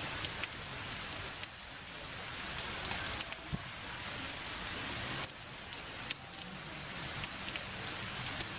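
Steady rain falling in forest, an even hiss dotted with many small, sharp drop hits.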